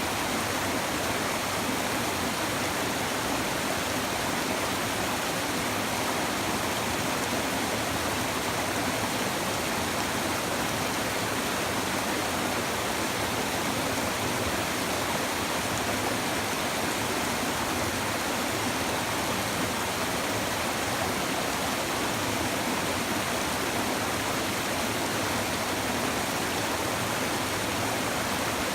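A babbling river: a steady, even rush of running water.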